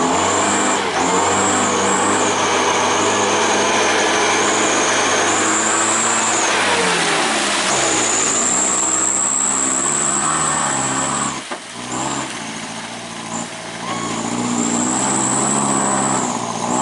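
Truck engine revving hard under load, with a steady high whine above it. The revs fall away about seven seconds in, the sound drops out briefly a little past the middle, and the engine builds up again near the end.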